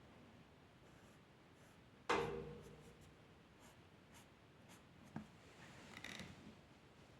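Faint strokes of a drawing tool scratching on paper. About two seconds in there is a sudden knock with a short ring, and a smaller click comes later.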